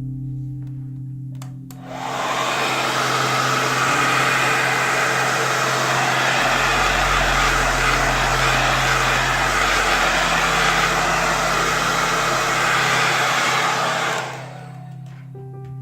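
Hot-air blower running steadily for about twelve seconds, switched on about two seconds in and off near the end, heating the cracked iPad Air 1 screen to soften its adhesive. Quiet ambient music with low held tones plays underneath.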